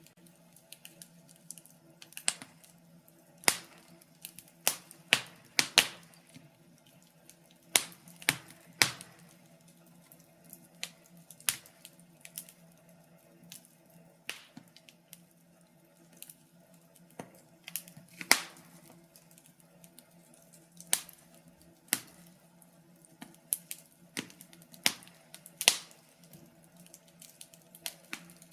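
Wood fire crackling in a fireplace: irregular sharp pops and snaps, a loud one every second or two among many fainter ticks, over a faint steady hum.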